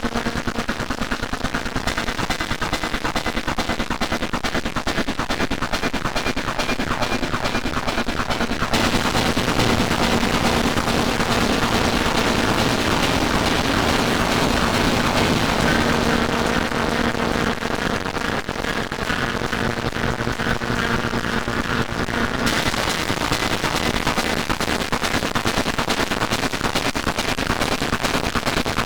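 Dense layered electronic music and sound-effect loops from many fan-made 'band' tracks played at once: a constant rapid crackle of clicks and beats over a few steady held tones. The high end brightens about 9 seconds in and dims again about 22 seconds in as layers change.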